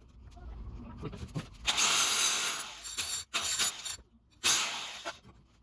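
Stone masonry work: gritty scraping with scattered clinks and knocks of stone and mortar, in two longer scraping strokes, one near the middle and one near the end.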